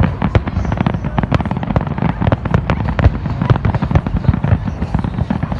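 Fireworks display going off in a dense, continuous barrage of rapid bangs and crackles, many every second.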